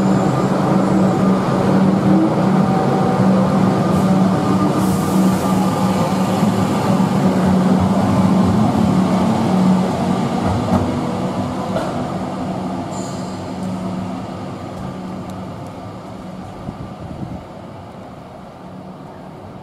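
Electric suburban train running through an underground station, a steady hum and rumble of motors and wheels. It is loudest over the first half and fades away over the second half, with a brief hiss about five seconds in.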